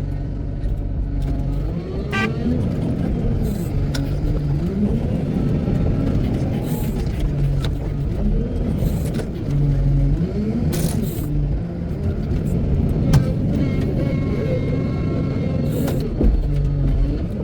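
Wheel loader's diesel engine working, its pitch rising and falling over and over as it revs up and settles back, with a few sharp knocks.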